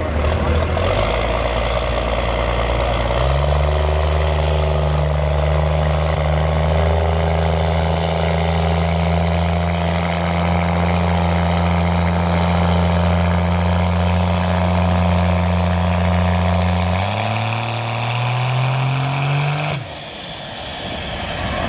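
A vehicle engine held at a steady speed, stepping up in pitch about three seconds in, holding there, then climbing again near the end before falling away.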